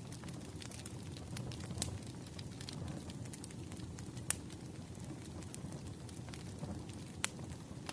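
Burning firewood crackling: a low steady rumble with scattered sharp pops, the loudest a little past the middle and again near the end.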